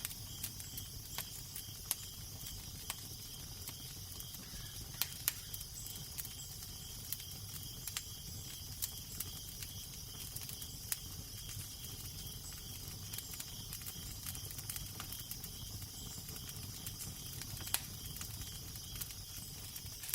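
Fireplace crackling, with irregular sharp pops scattered through, over a low steady rumble of wind.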